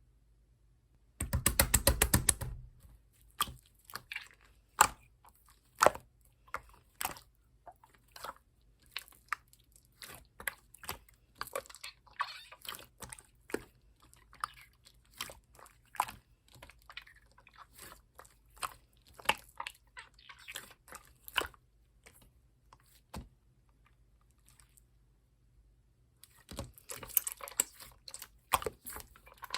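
Clear, colourless slime being squeezed and pressed by hand, making wet clicks and pops. A rapid run of clicks comes about a second in, then scattered pops, with a denser crackling stretch near the end.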